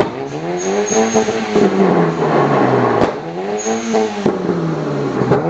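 2008 Seat Leon FR's engine revved in repeated blips through an exhaust fitted with a flame-thrower kit, its pitch climbing and falling about three times. A sharp crack comes about three seconds in and another a second later, typical of the kit igniting fuel in the exhaust.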